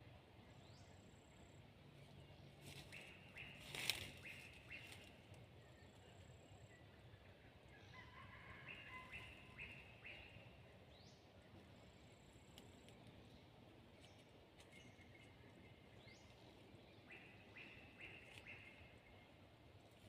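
Red junglefowl crowing faintly, three short, choppy crows several seconds apart, with other birds chirping and one sharp click.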